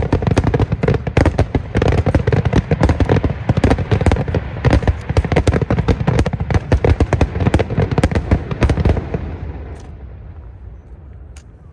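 Aerial fireworks going off in a dense, rapid barrage of bangs and crackles. The barrage dies away about nine seconds in, leaving a few scattered pops.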